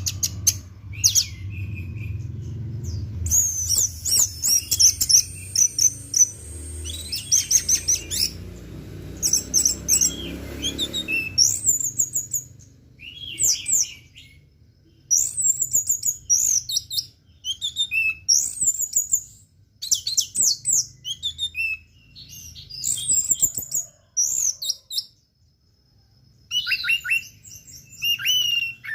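Orange-headed thrush (anis merah) singing a long run of quick, varied phrases of high, sweeping chirps, in short bursts separated by brief pauses, in the 'teler' style that Indonesian bird-keepers prize. A low rumble sits under the song for roughly the first half.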